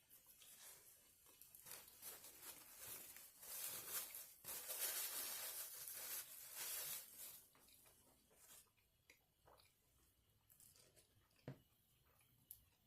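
Close-up eating sounds: biting into and chewing crunchy food, with a dense crackly stretch in the middle followed by scattered small clicks.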